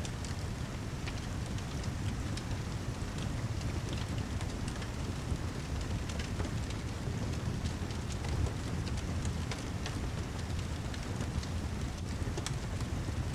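Steady rainfall mixed with a crackling fireplace: an even low rumble with scattered sharp crackles.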